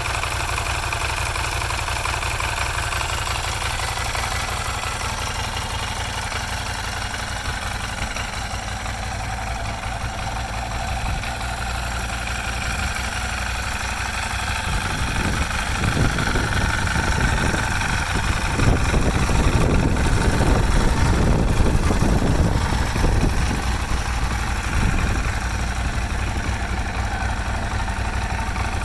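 Motorcycle engine idling steadily. Just past the halfway mark it grows louder and fuller for about ten seconds, then settles back to idle.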